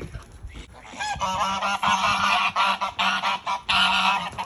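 Domestic geese honking, a rapid run of loud repeated honks starting about a second in.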